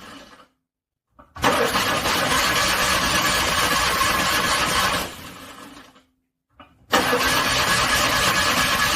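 Cold car engine cranked over by its starter, struggling to start: two long cranking attempts of about four seconds each, with a short silent pause between them.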